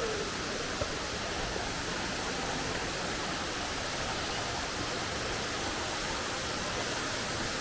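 Glade Creek Falls: a steady, even rush of falling water.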